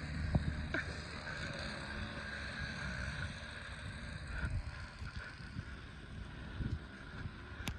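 Wind buffeting the microphone in a heavy snowstorm: an uneven low rumble with irregular gusts over a steady hiss.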